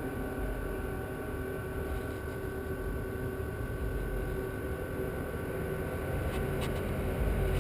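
Steady mechanical hum with a few constant tones and a low rumble, like a running engine or equipment at the site.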